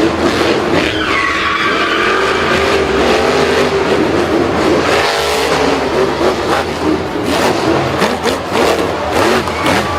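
Racing vehicle engines revving, with tyres skidding and squealing, in a dense, loud mix.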